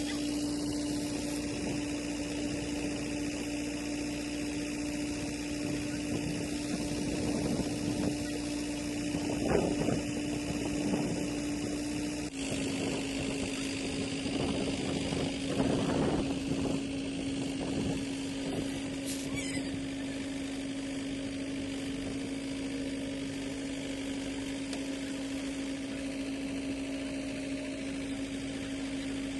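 A farm machine's engine running steadily, with two louder swells of noise about ten and sixteen seconds in. Its pitch steps slightly about twelve seconds in.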